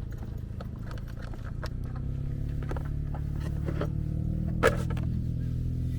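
Steady low hum of an M-Jet 35 RC jet ski running across the water, getting louder about two seconds in, with scattered light clicks and one sharp knock a little before five seconds in. The owner thinks its battery is running low.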